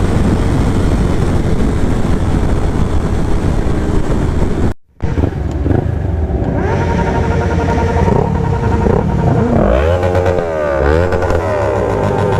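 Motorcycle engines with dense rushing noise. The sound cuts out for a moment about five seconds in. Then several engine notes rise and fall, crossing each other as the bikes rev up and back off.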